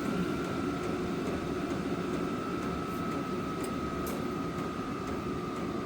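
Vevor 12 V 8 kW diesel air heater running, a steady blower rush with a thin whine that slowly drops in pitch as the fan slows down after being turned down to level 1.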